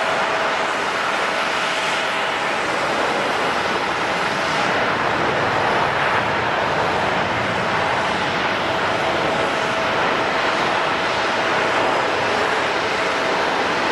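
Jet airliner engines running at an airport: a loud, steady rush with a thin steady tone.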